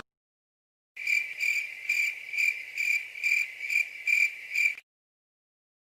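Cricket chirping sound effect, the stock 'crickets' used for an awkward silence: a high chirp pulsing a little over twice a second for nearly four seconds. It starts about a second in and cuts off cleanly.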